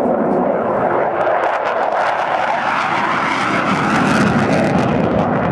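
F-16 fighter jet's engine during a fly-by: a loud, continuous rushing jet noise that shifts in pitch about halfway through as the aircraft passes.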